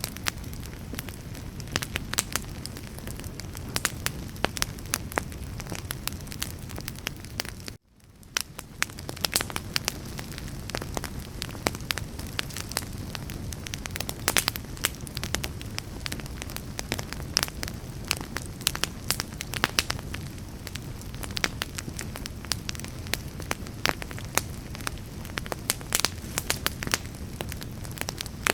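Wood fire crackling, with many irregular sharp pops over a low steady rumble of burning. The sound cuts out briefly about eight seconds in and fades back in.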